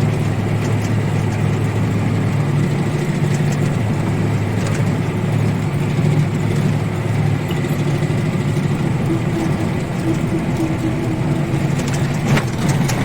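ZIL-130 truck's V8 petrol engine running steadily under load while driving, with its note changing a little past halfway. A brief click comes near the end.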